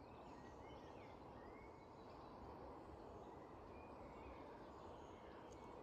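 Faint outdoor ambience: a steady low rush of background noise with a few faint, brief bird calls scattered through it.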